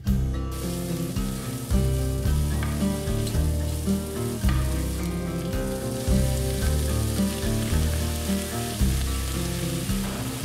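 Potato masala sizzling in hot oil in a non-stick kadai while it is stirred with a wooden spatula, with water sprinkled over it partway through. Background music with pitched bass and guitar notes plays under the sizzle.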